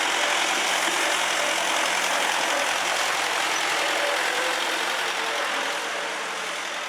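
Street watering truck passing close by, its engine running under a steady hiss of water spraying onto the pavement, easing off near the end as it moves away.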